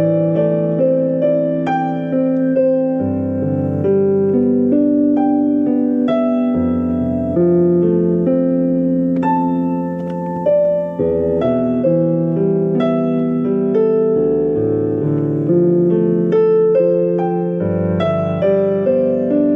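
Piano playing a slow, steady passage of chords over sustained bass notes.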